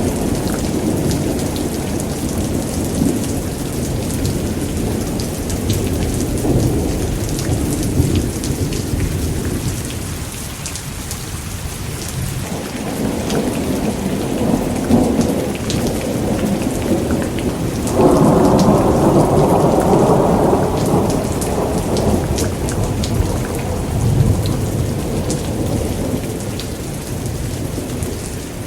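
Thunderstorm: steady heavy rain with low rolling thunder. A louder peal of thunder breaks in suddenly about two-thirds of the way through and rolls on for a few seconds.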